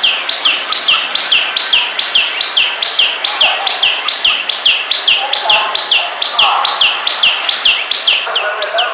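A bird repeating a short call that falls in pitch, about three times a second, steady and regular, with softer chattering of other birds below it.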